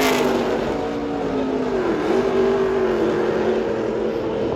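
V8 engines of NASCAR race trucks running at speed on track. A pass-by falls in pitch right at the start, then the engines settle into a steady drone that dips briefly about two seconds in.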